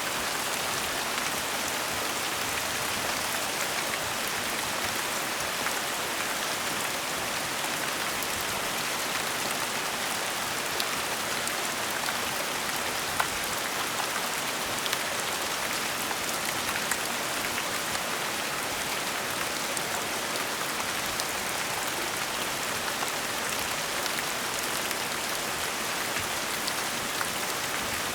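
Steady gentle rain falling on a surface, an even hiss with scattered individual drop ticks.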